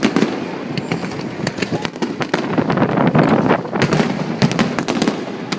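Fireworks going off: a steady crackling rumble with many sharp cracks and pops, most densely clustered about four to five seconds in.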